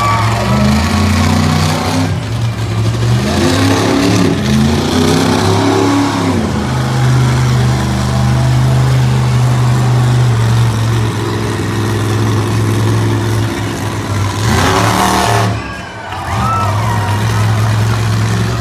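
Monster truck engine running hard, its pitch rising and falling as the throttle is worked. About three-quarters of the way through there is a short noisy surge followed by a brief dip, then it runs on.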